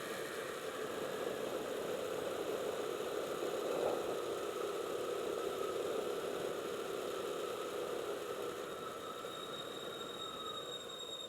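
Motorcycle under way, a steady engine hum mixed with wind rush, easing off slightly over the last few seconds.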